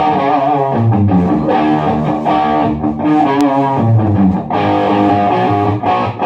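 Electric guitar played loud through a Marshall MG15 solid-state amp, its clean channel turned up into a 4x12 cabinet to give a crunchy, gritty overdrive: chords and riffs, with some notes bent and shaken with vibrato.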